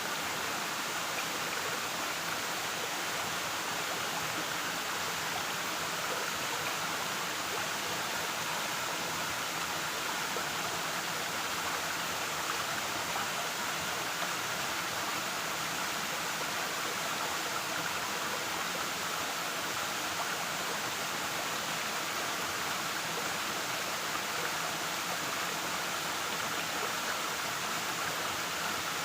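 Waterfall: water falling and rushing, a steady hiss-like roar with no changes.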